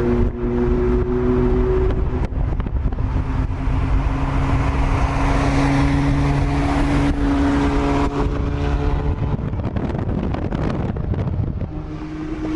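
Straight-piped third-generation Acura TL's V6 exhaust droning at a steady cruise, its pitch drifting slightly with the throttle.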